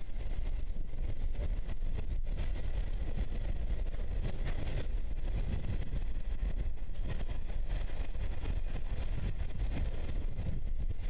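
Container freight train rolling across a steel trestle viaduct: a steady rumble of wagon wheels, unbroken throughout.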